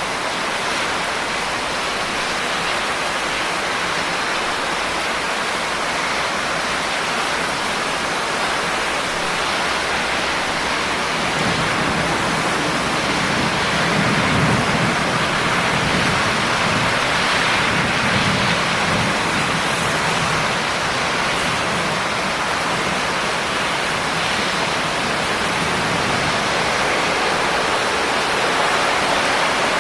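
Steady heavy rain, an even hiss, with a low rumble swelling up about a third of the way in and dying away by about two-thirds through.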